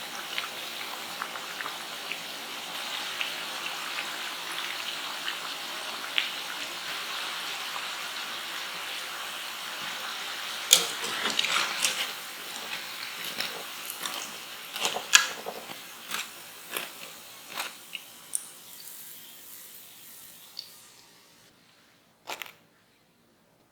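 Potato cakes deep-frying in hot oil: a steady sizzle with fine crackles. From about ten seconds in come sharper pops and clicks as the sizzle thins. It fades out near the end, and one last click follows.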